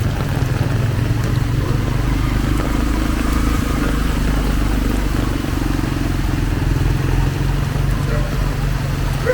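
Vehicle engines running close by on a rain-soaked street, a steady low rumble with the hiss of rain underneath.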